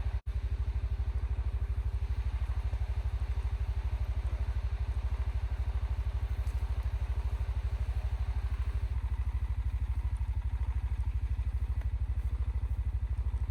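ATV engine running steadily at low revs, a fast even pulse, while it pushes snow.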